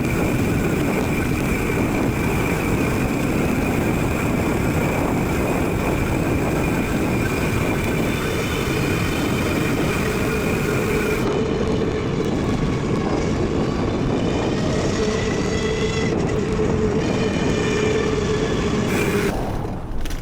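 Mountain bike rolling along a trail, recorded on a chest-mounted camera: steady rumble of tyres and frame over the ground with wind on the microphone, and a steady whine over it. The noise drops away suddenly just before the end.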